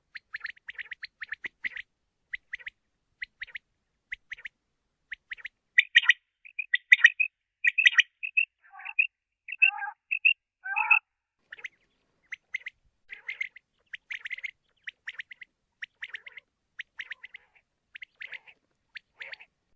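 Common quail calling: a quick run of short, high chirping notes. From about six to eleven seconds the calls grow louder and fuller, with some lower notes, before the short chirps resume.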